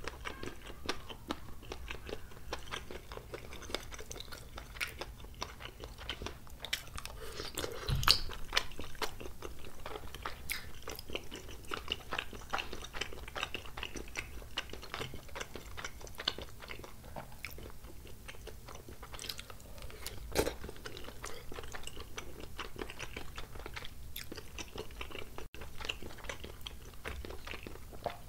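Close-miked chewing of spicy tteokbokki: a steady run of small mouth clicks and smacks. There is a louder knock about eight seconds in and another about twenty seconds in.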